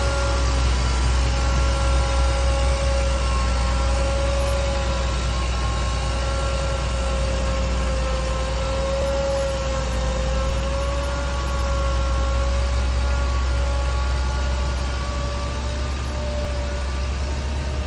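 Heavy diesel earthmoving machinery running steadily under load: a deep engine rumble with a steady whine riding over it.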